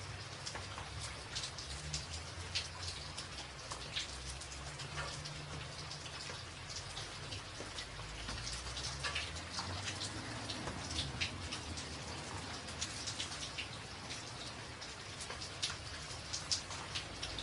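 Rain falling on a tin roof: a steady hiss of rain with many separate sharp drop strikes on the metal, over a low rumble.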